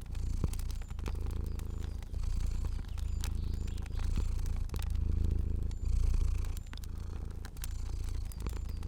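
A cat purring steadily, the low rumble swelling and easing in cycles of about a second with each breath. Light crackling pops from a fire click through it.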